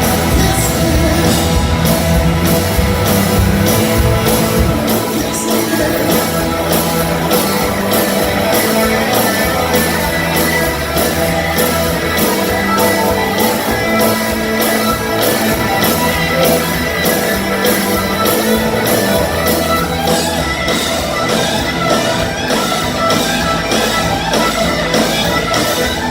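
Live blues-rock band playing an instrumental passage: guitar over bass and drums with a steady beat.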